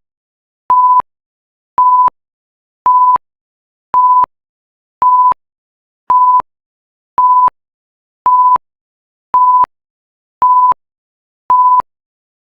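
Countdown timer alarm: a steady electronic beep of one pitch repeating about once a second, about eleven short beeps with silence between, signalling that the countdown has ended.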